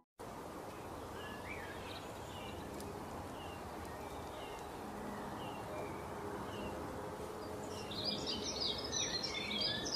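Outdoor nature ambience: a steady hiss of background noise with small birds chirping, a short high chirp repeated about once a second, then busier twittering near the end.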